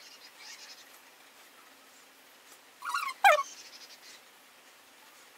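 Quiet room tone, broken about three seconds in by a bird's call: a short note, then a loud, quick squawk that falls steeply in pitch.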